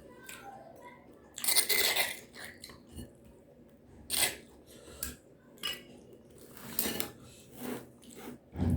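Close-miked eating of a fried chicken, tofu and tempe meal: short bursts of biting and chewing, with clinks of utensils against a plate, recurring every second or so.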